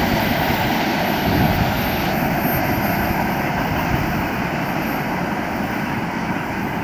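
Freight train's gondola wagons rolling past on steel wheels: a steady rumble and clatter on the rails, easing off slightly toward the end as the train draws away.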